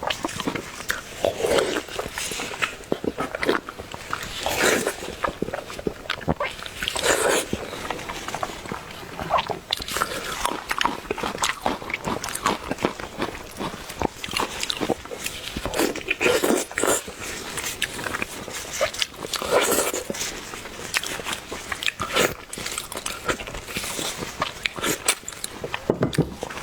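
Close-up chewing and biting of roasted lean pork: wet mouth clicks and smacking throughout, with a short voiced sound every few seconds.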